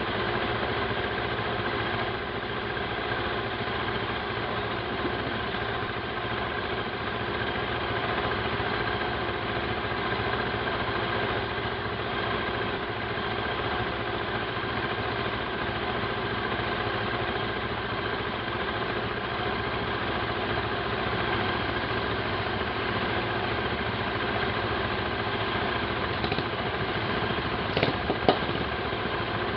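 Motorcycle engine running at a steady idle, its note unchanging, with a few short clicks near the end.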